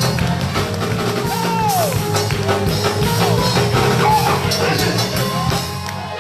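Church praise-break music: a band with drum kit and bass playing fast and loud, with voices calling out over it. The music eases off near the end.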